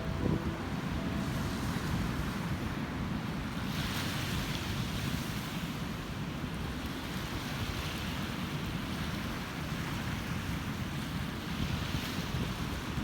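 Ocean surf washing onto the beach, with wind rumbling on the microphone. The wash of the waves swells about four seconds in and again near the end.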